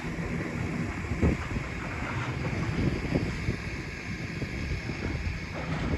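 Wind buffeting the microphone outdoors, a steady low rumble with no distinct machine or voice.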